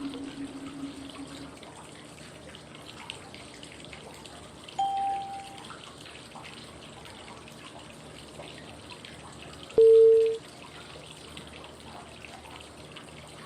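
Steady flowing-water white noise with short pitched cue tones every five seconds pacing 5-5-5 breathing: a low tone fading at the start, a higher one about five seconds in, and the loudest, mid-pitched tone about ten seconds in.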